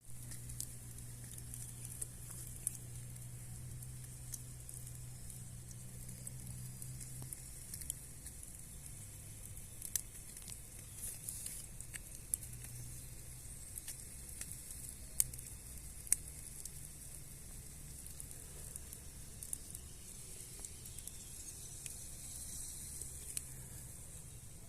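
Sausages sizzling over a campfire, a steady high hiss with the wood fire crackling and giving sharp pops every second or so.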